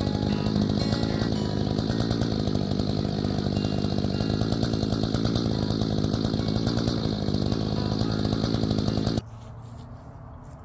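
Gas chainsaw running steadily at high speed, then cutting off suddenly about nine seconds in.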